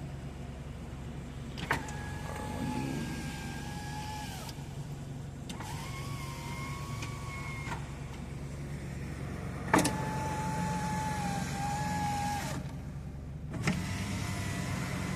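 An electric accessory motor in a 1991 Mitsubishi 3000GT VR4 whines in four runs of two to three seconds each, each starting and stopping with a click. The second run is higher-pitched. Under it the car's twin-turbo V6 idles steadily.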